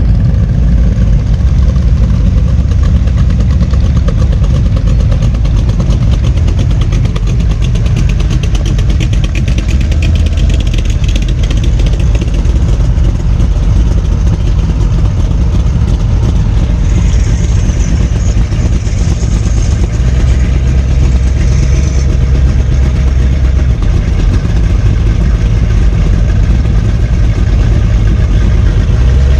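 A car engine idling loudly with a steady, low rumble. The exhaust smells of race fuel.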